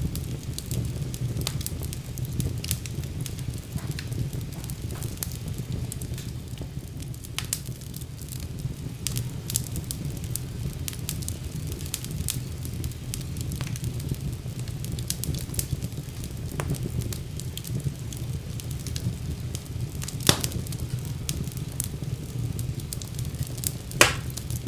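Fire burning in a fireplace: a steady low rumble of flames with frequent small crackles, and two loud pops, one about twenty seconds in and one near the end.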